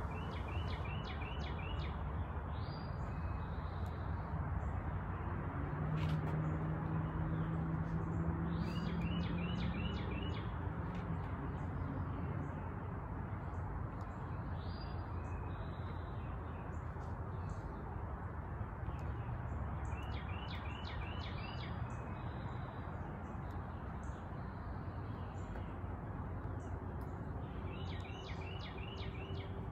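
Songbirds singing outdoors over a steady background hum. A phrase of about five quick high notes repeats every ten seconds or so, with other chirps between. A low drone swells and fades around the middle.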